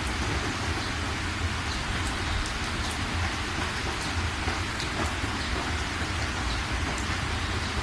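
Steady rain falling, a constant even hiss with a low rumble underneath and scattered individual drop ticks.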